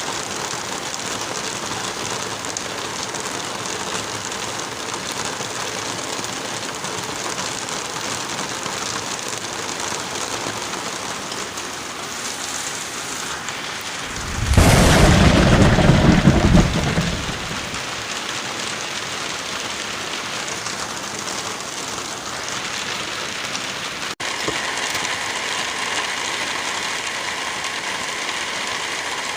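Steady heavy rain. About halfway through comes one loud thunderclap, deep and lasting about two seconds. A little over three quarters of the way through, the sound cuts out for an instant and the rain resumes with a slightly different texture.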